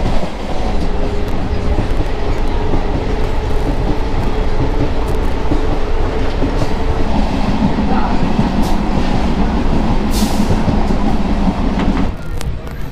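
Local passenger train running at speed: a loud, steady rumble of wheels on the rails and carriage noise, with a few brief clicks. It grows heavier in the lower register about halfway through, then drops away about a second before the end.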